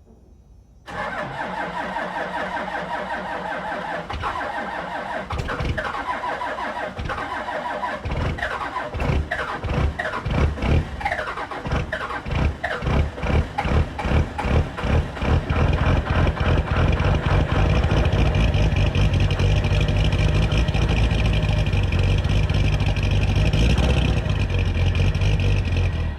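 12-valve Cummins inline-six diesel cold starting: the starter cranks for about seven seconds, the engine then fires unevenly and picks up over several seconds, and about fifteen seconds in it settles into a steady run.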